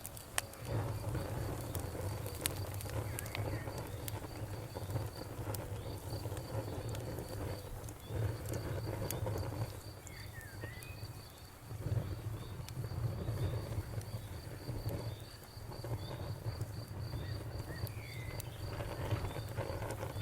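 Bonfire crackling, with scattered sharp pops over a low rumble that swells and fades, while crickets chirp in an even, steady train.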